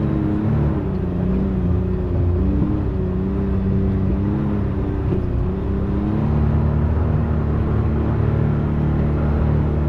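Can-Am Maverick X3 side-by-side's turbocharged three-cylinder engine running under load on a slow, rocky climb, its pitch rising and falling with the throttle, then holding a steadier note from about six seconds in.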